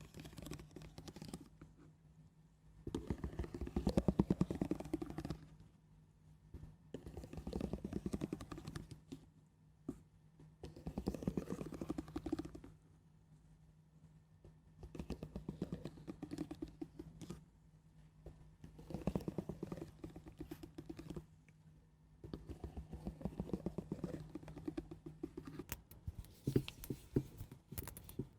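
Slow, gentle ASMR scratching: about seven separate strokes, each a grainy rasp of fine ticks lasting two to three seconds, with short pauses between them. A faint steady hum lies underneath.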